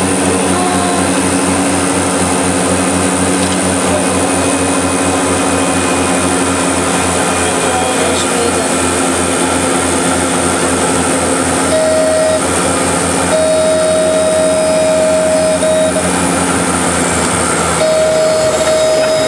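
A seaplane's propeller engines drone steadily, heard from inside the cabin, with a pulsing low throb and a high whine above it. In the second half a steady single tone comes on and off several times. Near the end the lower engine drone drops away.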